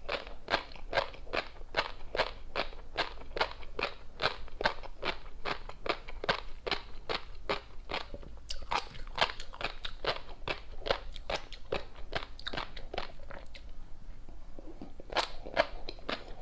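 Close-miked chewing of tobiko (flying fish roe) with a crunchy seafood topping: a steady run of crisp crunches and pops, about three or four a second, thinning out briefly near the end.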